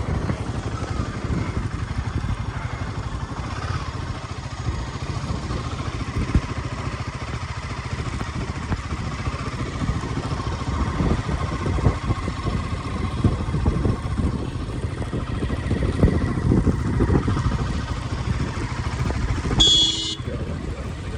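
A vehicle on the move: a steady low engine drone and road noise, with frequent small knocks and rattles. A short high-pitched tone sounds near the end.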